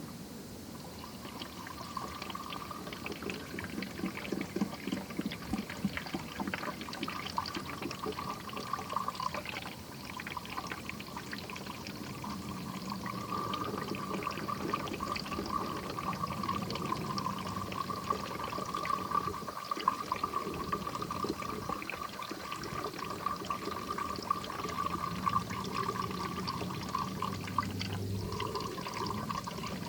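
Plain water being poured steadily into a car's plastic windshield washer fluid reservoir, breaking off briefly twice, to fill it and check a repaired washer pump for leaks.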